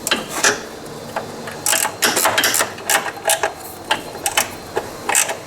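Hand ratchet wrench clicking in short, irregular runs while nuts on a CVT clutch housing are run down loosely, not yet torqued.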